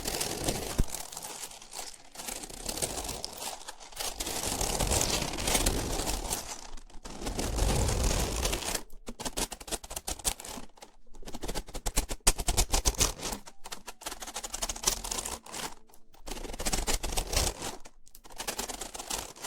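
Close-miked ASMR trigger sounds: crinkly rustling and scraping right against the microphone. They come in uneven stretches of a second or two, full of small clicks, with short pauses between them.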